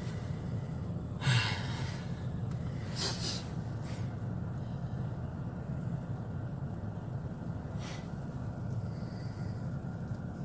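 Steady low hum of a car idling, heard from inside the cabin, with a few brief hiss-like sounds over it, the loudest about a second in.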